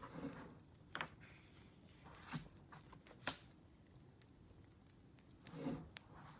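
Faint crackling of a wood fire: a few sharp pops over a soft hiss, with a couple of softer rustling swells at the start and near the end.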